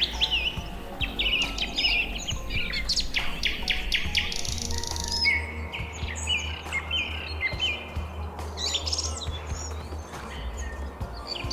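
Several small birds chirping and whistling in quick, overlapping calls, some gliding up or down, over a steady low hum.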